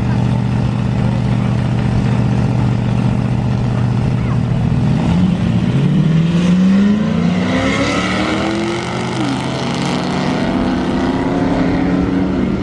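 Car engine holding a steady drone, then accelerating hard with rising pitch; the pitch drops suddenly at a gear shift about nine seconds in and climbs again.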